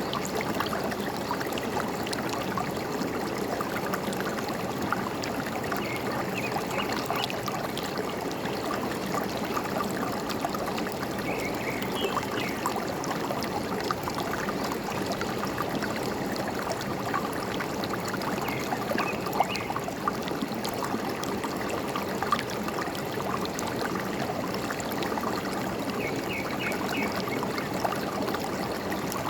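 A forest stream running and trickling steadily, with a few faint short bird chirps now and then.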